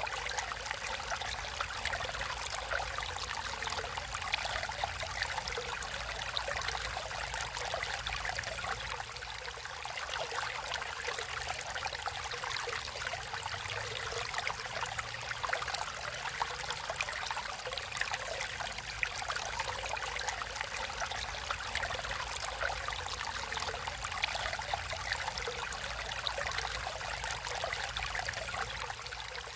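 Naturally flowing water, a stream running and trickling steadily: an unbroken rush of water, mostly in the higher range, dense with fine splashes.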